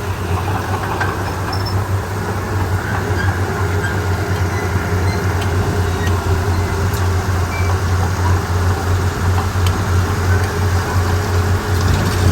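Komatsu D31P bulldozer's diesel engine running steadily with a strong low hum, with a few faint clicks from the machine working.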